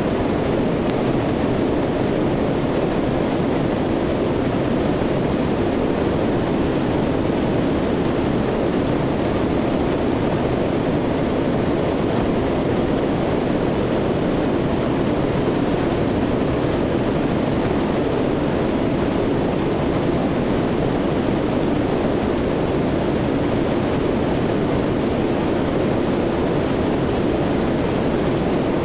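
Steady, unchanging drone of a C-130's four turboprop engines and airflow, heard from inside the aircraft in level flight.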